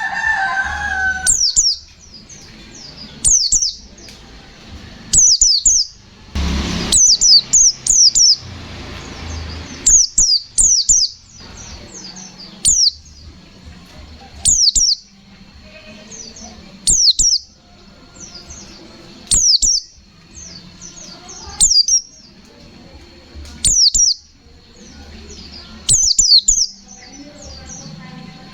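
White-eye (pleci) singing its rapid 'nembak' phrases: short clusters of high, sharply falling whistled notes, repeated about every two and a half seconds. A faint steady high tone runs underneath, and a short noisy rustle comes about six and a half seconds in.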